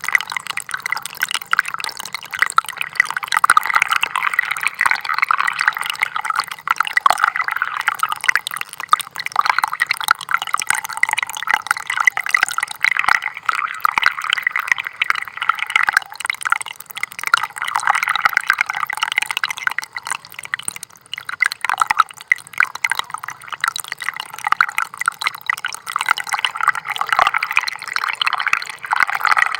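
Small stream of water trickling continuously, a busy patter of little splashes and drips that swells and eases slightly.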